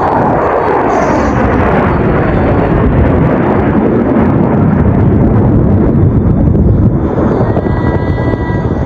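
Jet aircraft passing low overhead: a loud, continuous roar whose pitch falls in the first couple of seconds as it goes by.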